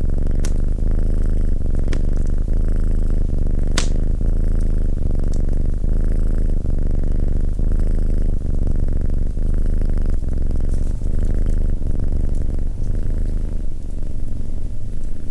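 Domestic cat purring loudly and steadily, with a few sharp clicks over it, the strongest about four seconds in.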